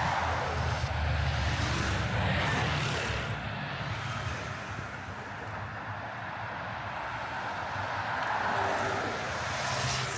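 City street traffic: motor vehicles passing with a steady low engine rumble and tyre noise, swelling near the start and again near the end.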